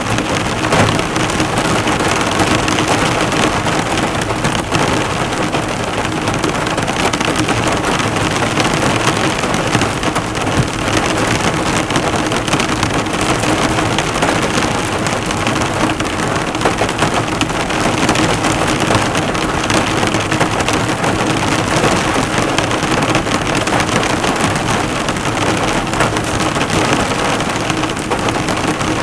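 Heavy rain drumming steadily on a car's bodywork, the drops bouncing off the bonnet in a dense, even patter.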